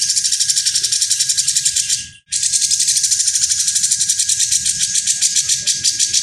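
Songbird singing a harsh, rasping, high-pitched trill of rapid pulses. This is the rough 'besetan kasar' style of masteran song. The sound cuts out briefly about two seconds in and then resumes.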